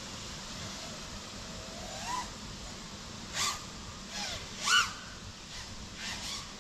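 Several short bird calls, single notes that rise or fall in pitch, over a steady outdoor background hiss; the loudest call comes about two-thirds of the way through.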